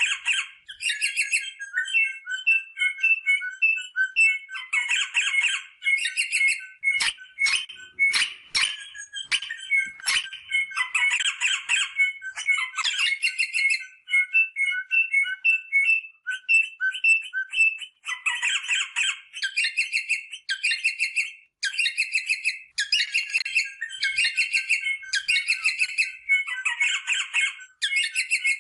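Rosella parrot calling: rapid chattering squawks and short repeated piping notes, in quick bursts with brief gaps, all through.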